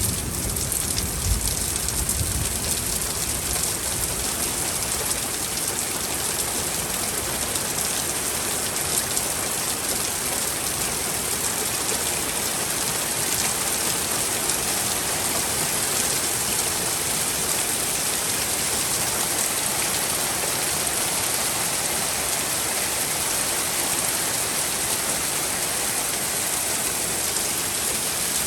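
Heavy rain pouring down steadily in a thunderstorm. A low rumble of thunder dies away in the first few seconds.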